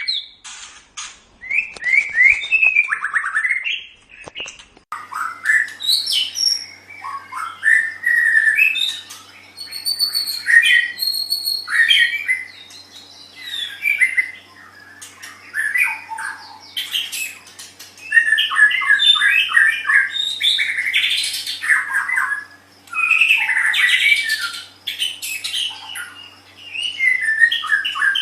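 White-rumped shama (murai batu) singing loud, varied phrases of quick whistles, trills and rapid note runs, broken by short pauses. A faint steady hum joins underneath about five seconds in.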